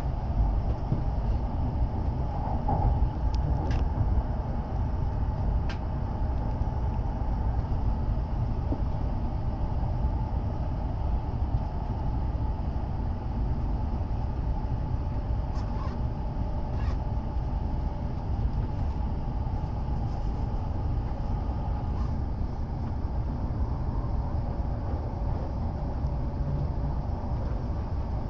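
Steady rumble of a W7 series Hokuriku Shinkansen train running, heard inside the passenger car, with a few faint clicks.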